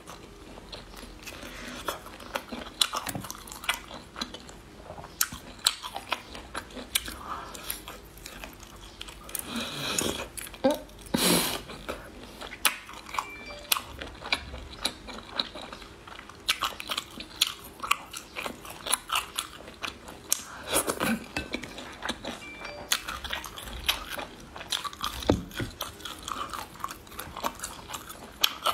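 A person biting and chewing food close to the microphone, with frequent crisp crunches and crackles and wet mouth sounds.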